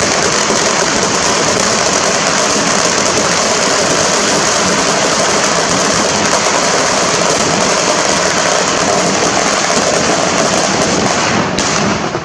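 A string of firecrackers going off in a rapid, unbroken crackle of small bangs, loud throughout, stopping abruptly near the end.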